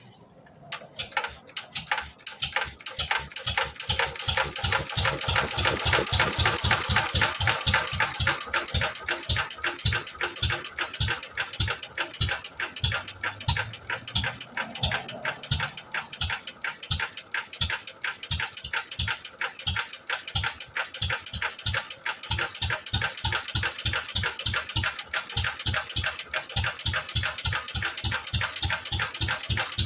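McCormick M 1.5 hp hit-and-miss stationary engine catching on a cold start: rapid, even knocks begin about half a second in, grow louder and pick up over the first several seconds, then run on steadily at about four beats a second.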